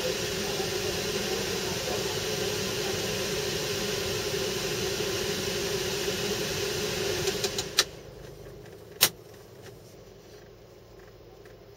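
Mazda Demio dirt-trial car idling, heard inside the cabin: a steady hum that stops abruptly about eight seconds in after a few clicks, followed by a single sharp click about a second later.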